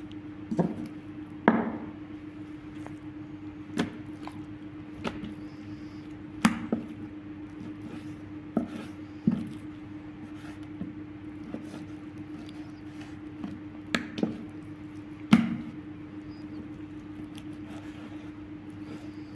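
A knife or cleaver chopping mutton on a wooden board: about a dozen irregular knocks, one to two seconds apart, the last of them well before the end. A steady low hum runs underneath.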